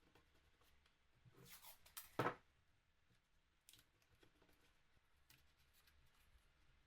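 Faint handling noises: a short rustle, then a single sharp knock about two seconds in, with scattered small clicks.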